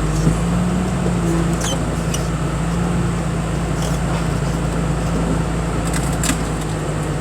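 Engine of the machine moving scrap around a car-crushing yard, running steadily with an even low drone, with a few light knocks.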